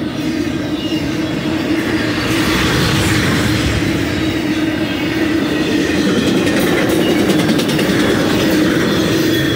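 Intermodal freight cars of a fast BNSF train rolling past: a loud, steady rumble of steel wheels on rail with a constant low droning hum.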